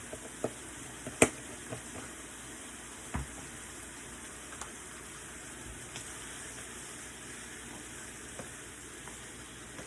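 Shrimp and minced garlic sizzling in a frying pan, a steady hiss, with a few sharp clicks of a utensil against the pan, the loudest about a second in.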